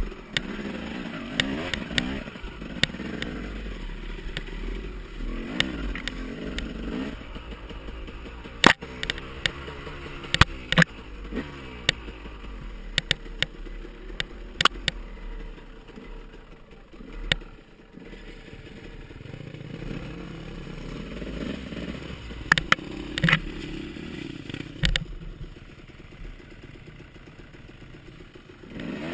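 Off-road dirt bike engines revving up and down as they ride, with repeated sharp knocks and clatter. The engines are quieter for a moment a little past halfway.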